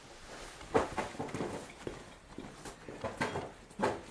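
A run of irregular knocks and clatter, the loudest about a second in and twice more in the last second.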